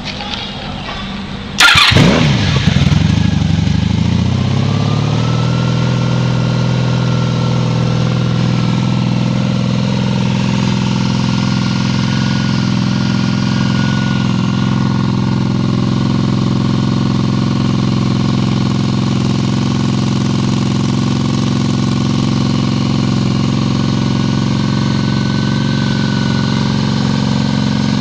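1994 Honda Magna V4 motorcycle engine with a Cobra aftermarket exhaust, cold-started on the choke. It cranks briefly, catches about a second and a half in with a sharp flare, then settles within a few seconds into a steady idle. The idle runs a little low for a cold start.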